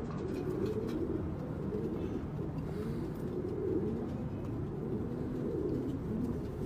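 A flock of racing homer pigeons cooing steadily, with many low coos overlapping one another.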